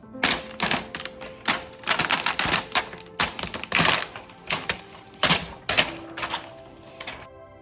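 A run of quick, uneven scratching and tapping strokes, about two a second, over soft background music. The strokes stop near the end, leaving only the music.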